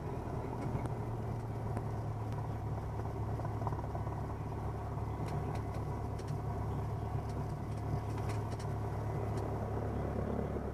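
A 1977 Cessna 172N's four-cylinder Lycoming piston engine running steadily at low power while the plane taxis: an even, low drone.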